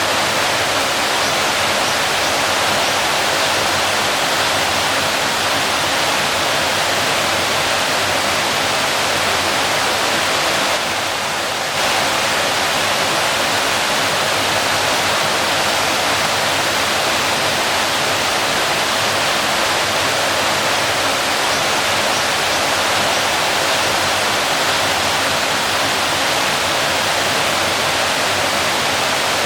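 Waterfall: a steady rush of falling water, dipping slightly in level for about a second near the middle.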